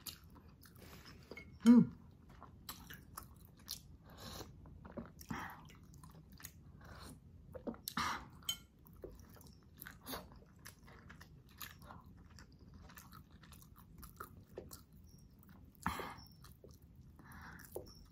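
Close-miked chewing of boiled beef meat pulled from neck bones and ribs: wet smacking, biting and small crunches in an irregular run of clicks, with one louder mouth sound about two seconds in.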